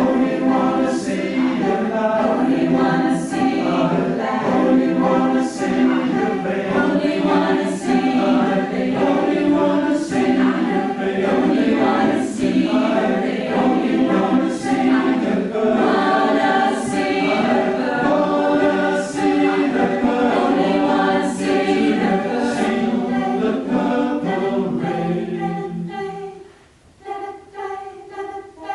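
Choir singing a cappella in close harmony, with a soft high hiss recurring about every two seconds. Near the end the low voices drop out and the singing thins to a few quieter upper voices.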